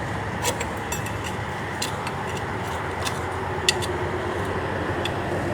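Metal hive tool scraping and prying at tough, hardened comb, heard as scattered small clicks and scrapes over a steady background rumble.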